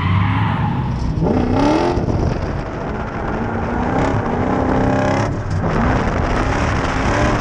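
Lexus 1UZ V8 in a Mazda B2200 mini truck revving up and down hard through a drift, with tyres skidding and squealing.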